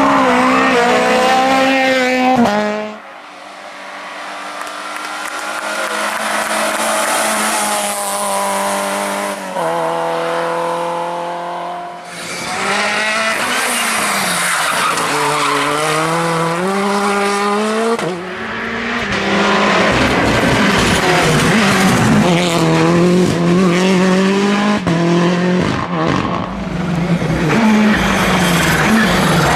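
Rally cars at full throttle on a special stage, engines revving hard and dropping back through gear changes as they pass. Several separate passes follow one another, with abrupt changes about 3, 12 and 18 seconds in and near the end.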